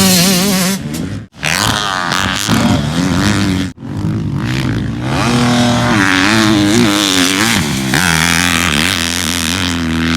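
Motocross dirt bike engine revving up and down under riding, with a hiss of wind and dirt over it. The sound cuts out abruptly twice, about a second in and near four seconds in.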